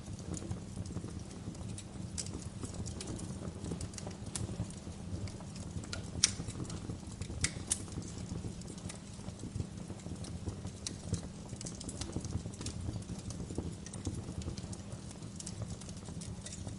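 Wood fire burning in a fireplace, a steady low rumble under irregular crackles and pops, with a sharper pop about six seconds in and another near halfway.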